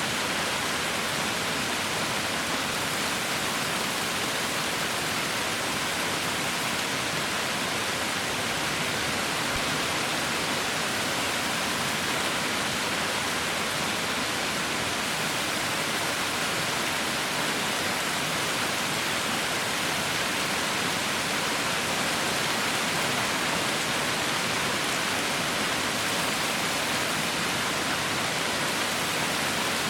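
Heavy rain falling steadily as a dense, even hiss, with no distinct drops or breaks.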